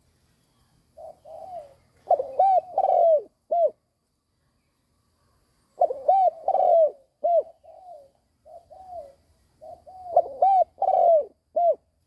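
Spotted dove cooing in its 'gù' style, the call of a decoy bird used to provoke wild doves. Two bouts, each opening with soft notes and ending in a few loud, arching coos; the second starts about six seconds in.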